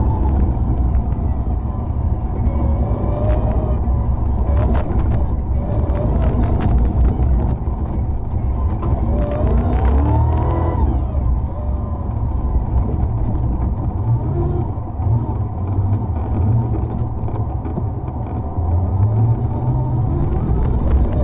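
Off-road rally car's engine, heard from inside the cockpit, revving up repeatedly as it accelerates along a dirt track, the pitch climbing and dropping back with each gear change over a heavy low rumble. Scattered sharp clicks and knocks ride over it.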